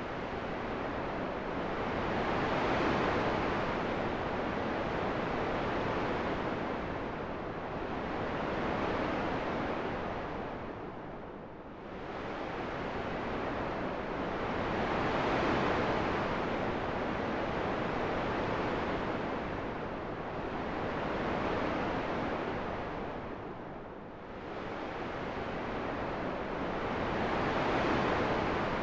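Wind blowing in a steady hiss that swells and eases in slow gusts, dropping to a lull about every twelve seconds.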